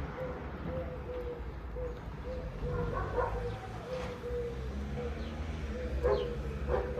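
A dog whining softly: a thin, high, steady whine that keeps breaking off and starting again.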